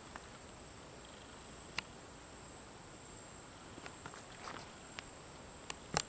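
Faint, steady high-pitched insect buzz, with a few small clicks and a sharper click near the end.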